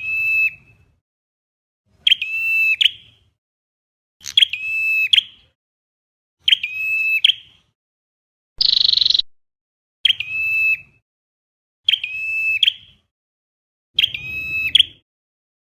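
Recorded calls of a flowerpecker (Vietnamese 'chim sâu đầu đỏ'), played in a loop as a trapping lure: a short, steady, high note about every two seconds, with a harsher buzzy note about halfway through and again at the end.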